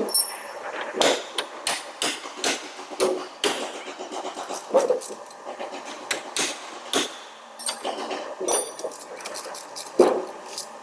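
Hammer blows on truck cab sheet-metal panel work: irregular strikes, one or two a second, a few ringing briefly.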